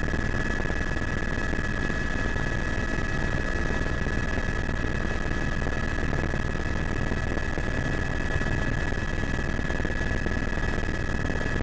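Helicopter running steadily: constant engine and rotor noise with a steady high-pitched whine.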